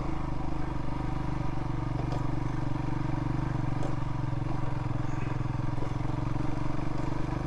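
Royal Enfield Himalayan motorcycle engine running steadily while riding at an even pace.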